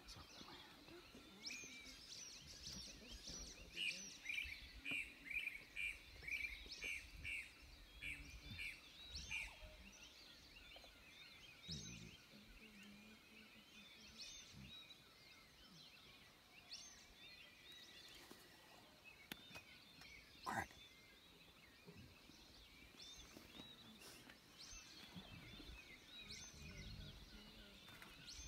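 Faint dawn chorus of birds calling: a quick run of repeated notes for the first several seconds, then single sharp calls every few seconds over a soft background hiss.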